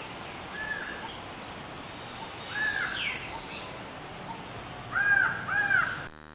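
A crow cawing four times, spread over the stretch with the last two close together, over a steady outdoor hiss. A steady electronic buzz cuts in just at the end.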